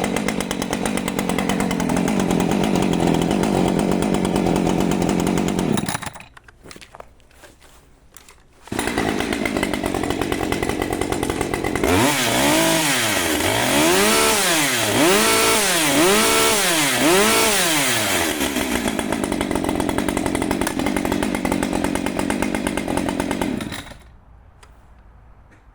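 Husqvarna 545 Mark II two-stroke chainsaw running, cutting out about six seconds in and starting again a few seconds later. It is revved up and down about six times, then settles back to idle and is shut off near the end.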